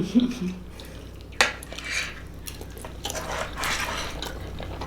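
Cutlery clinking and scraping against plates and bowls during a meal, with one sharp clink about a second and a half in.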